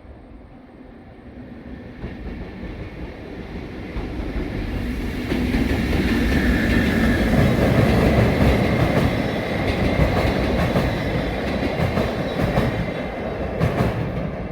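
A train approaching and passing. The rumble builds over about six seconds to a steady, loud run of wheels on rail, then slowly fades, with a few sharp rail-joint clacks near the end.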